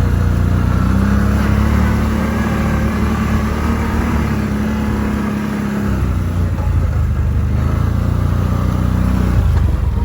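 Vehicle engine running under way, its pitch rising and falling a few times as the speed changes.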